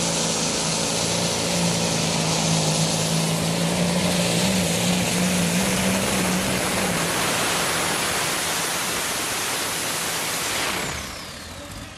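Light Modified pulling tractor's engine running flat out under load, a dense, loud noise with a high whine. About eleven seconds in the throttle is cut, and the noise drops away with the whine falling in pitch.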